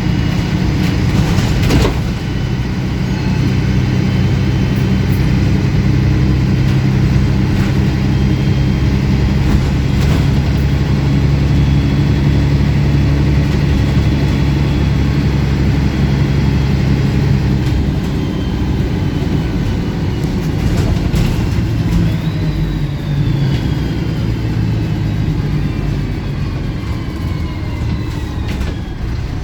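Diesel engine of a MAN 18.220 Transbus ALX300 single-decker bus running under way, heard on board, with its exhaust louder than usual. About two-thirds of the way through, the engine note drops and a high whine falls steadily in pitch as the bus slows.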